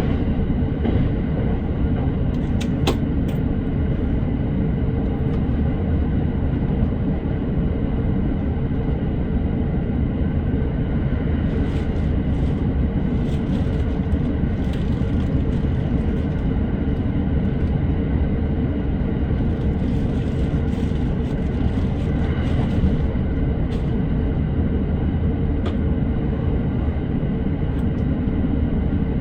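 Commuter electric train running at speed, heard from inside the car: a steady low rumble of wheels on rail with a faint steady tone and a few sharp clicks.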